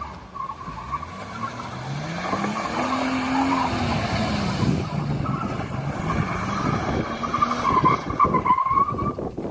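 1998 Ford EL Falcon engine being revved through its old, worn-out stock exhaust, which is falling apart. The engine note climbs to a peak about three seconds in and drops back, then more revs follow, loudest near the end, with a high whine running over it throughout.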